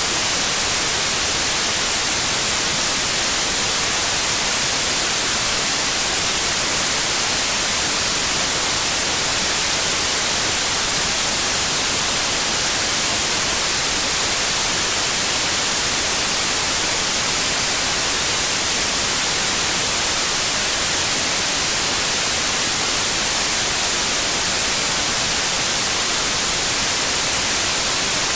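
Steady white noise: an even hiss with no changes in level, strongest in the high end.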